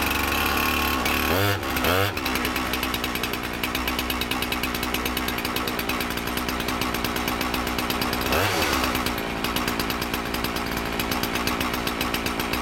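Gas-powered two-stroke fire service saw idling just after a cold start on choke, revved up and back down twice in quick succession about a second and a half in, and once more a little past the middle.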